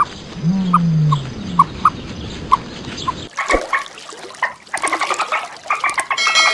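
Birds chirping in short repeated notes, with a low, drawn-out animal call under them in the first half. A little past halfway the sound cuts abruptly to a different recording of birds chirping and calling.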